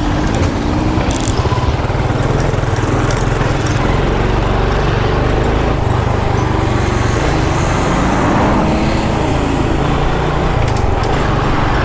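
Motorbike engine running steadily while riding, with rushing wind and road noise.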